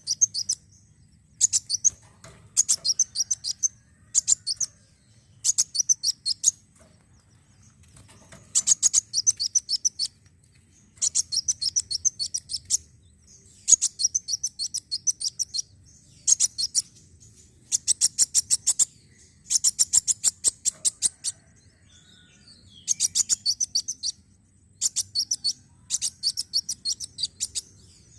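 Kolibri wulung sunbird song: bursts of rapid, high-pitched chattering trills, each about a second long, repeated again and again with short pauses between.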